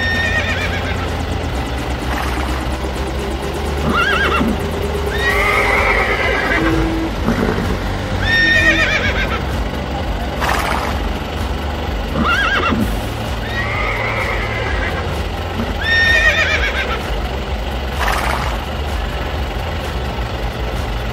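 Horses whinnying again and again, a short call every two seconds or so, over a steady low hum.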